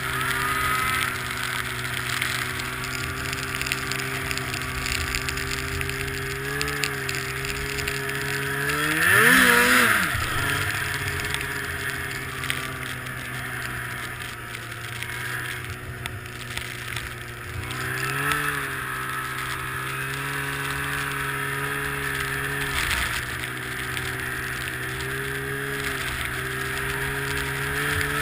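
Two-stroke engine of an Arctic Cat Sno Pro snowmobile running at a steady speed. About nine seconds in it revs up sharply and drops back, the loudest moment, and it blips again more lightly around eighteen seconds.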